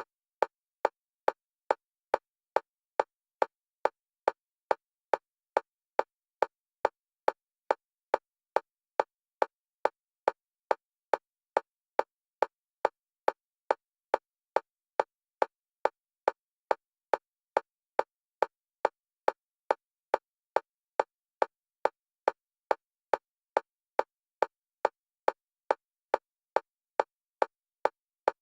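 Metronome clicks of a single pitch, short and evenly spaced at about two a second, alternating between the left and right stereo channels for EMDR bilateral stimulation.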